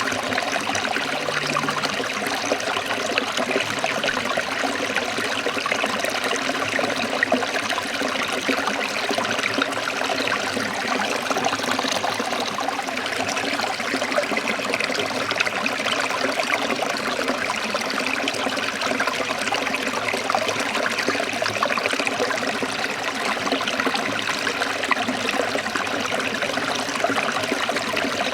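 Forest stream trickling and splashing over rocks, a steady, even rush of water.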